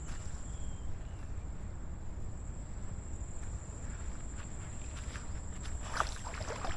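Steady high-pitched insect drone, like crickets, over a low rumble. Near the end come a few sharp splashes and sloshes of a person wading into deep estuary water.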